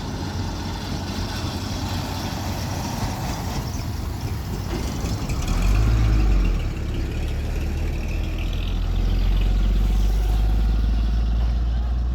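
Heavy vehicle engine running, with a low rumble that swells louder about halfway through and again for a few seconds later on.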